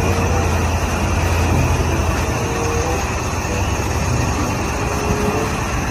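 Heavy truck engine running steadily: a strong low hum under a hissing noise.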